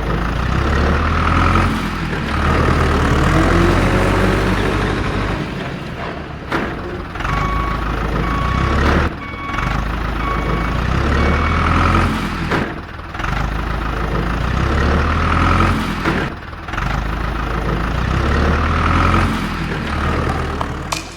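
Truck or heavy-vehicle engine running steadily with rhythmic swells. A short row of about four reversing beeps sounds about a third of the way in. The sound breaks off and restarts several times, as at edit cuts.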